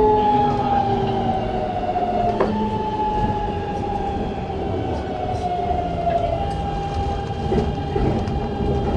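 Keikyu New 1000 series train's Siemens GTO VVVF inverter whining inside the car over the wheel rumble. Its tones glide down in pitch and jump to a new pattern twice, then hold one steady note near the end, as the train slows.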